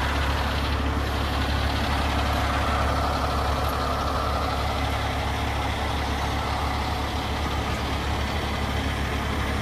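Heavy crane tow truck's engine idling steadily with a deep, even hum.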